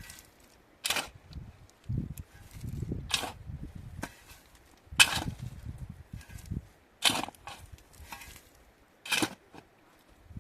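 Repeated sharp impacts, about one every two seconds, with duller low thuds between them.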